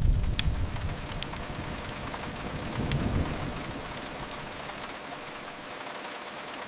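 Steady rain hissing, with a deep rumble that fades over the first second and swells again around three seconds in. A few sharp crackles from a wood fire sound over it.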